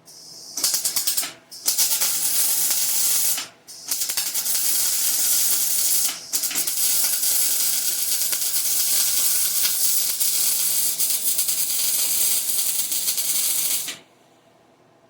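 Wire-feed welder's arc crackling and sizzling while laying a bead on 3/8-inch steel: two short starts and stops in the first four seconds, then a long steady run that cuts off about a second before the end. The weld is penetrating the steel well.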